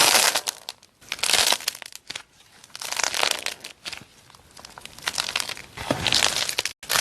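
Crackling crunches of a soft, brittle material being pressed and crushed by hand, coming in about five bursts of roughly a second each, cut off abruptly near the end.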